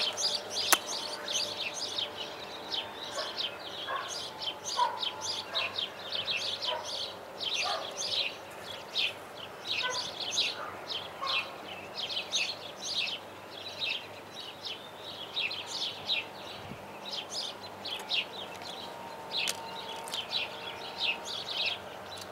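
Small birds chirping and twittering repeatedly in the background. Less than a second in comes a single sharp scratch as a paper match is struck.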